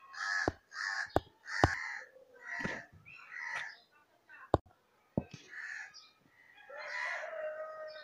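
Birds calling outdoors: a run of about seven short calls, the last one near the end drawn out longer. A few sharp clicks fall between the calls.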